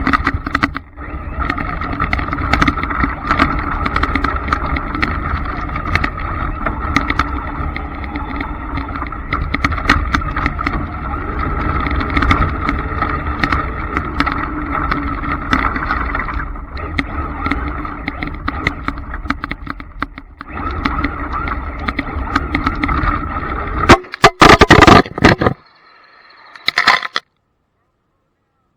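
Electric Traxxas Slash RC trucks running, a steady motor whine over tyre and ground noise. It breaks into a few loud rough bursts near the end, then cuts to silence.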